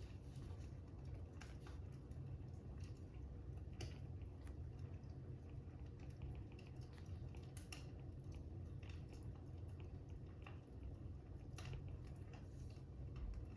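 Fire crackling: irregular soft pops and snaps over a low, steady rumble.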